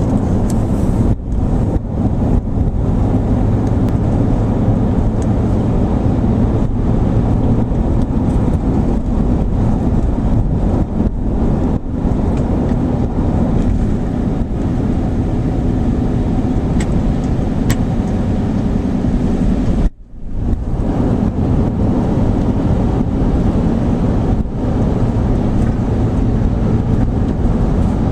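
Truck driving at a steady speed: a continuous engine drone and road rumble, broken by a brief sudden dropout about two-thirds of the way through.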